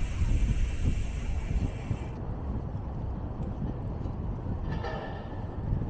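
Steady low rumble of city street traffic heard from a moving bicycle, with a short higher-pitched sound about five seconds in.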